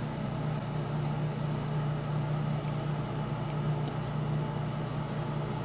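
Steady low machine hum, unchanging, with a few faint small clicks.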